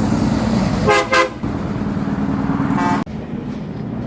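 A motor vehicle's engine running with a steady low hum, and its horn tooting twice in quick succession about a second in, then once more near three seconds in; the sound cuts off suddenly just after.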